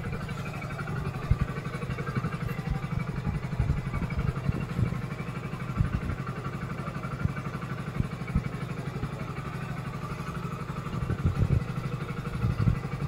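Hero Splendor+ motorcycle's small single-cylinder four-stroke engine idling steadily, with a fast, even putter.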